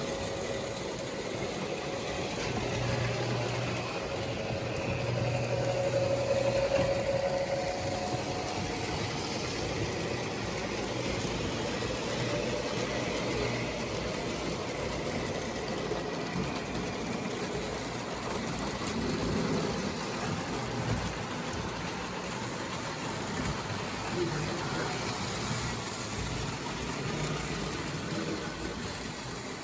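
Model electric trains running on the layout: a steady motor hum and the rolling rattle of wheels on track, a little louder a few seconds in.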